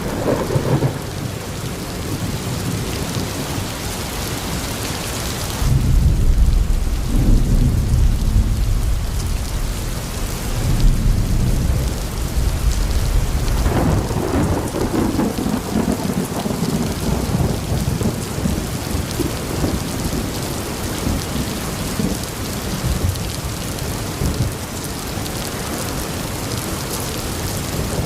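Steady rain with rolling thunder. Deep rumbles swell about six seconds in and again around fourteen seconds, over the continuous hiss of the rain.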